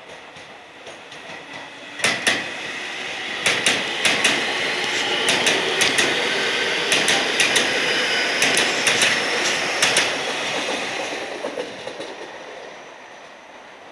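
Keio Inokashira Line train passing, its wheels clacking in quick pairs over the rail joints. It comes in abruptly about two seconds in, stays loud for several seconds, then fades away near the end.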